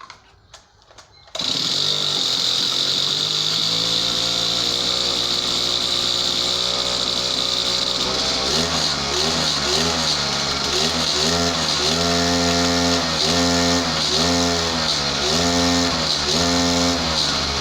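Small two-stroke brushcutter engine starting about a second in, then running steadily. From about halfway through, the throttle is blipped over and over, the pitch rising and falling roughly every 0.7 s. This tests the drive shaft after it was refitted into the gearhead because it had been slipping.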